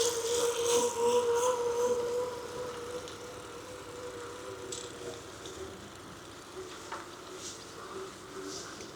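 A passing motor vehicle's steady hum, loudest in the first two seconds and fading away, with a slightly lower pitch as it recedes. Sharp clicks and rattles from the bicycle come right at the start, over the tyres' hiss on pavement.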